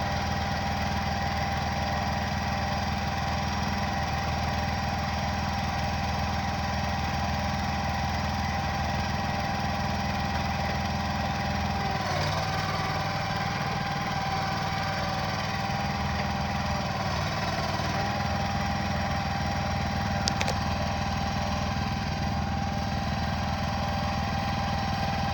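An engine running steadily, with a steady high whine over it; its low note shifts slightly about twelve seconds in.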